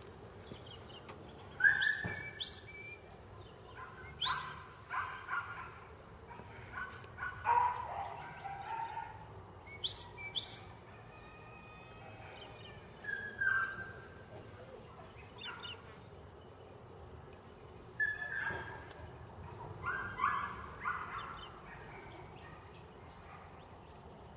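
Birds calling outdoors: short chirps and calls, a few every couple of seconds, some with brief falling notes.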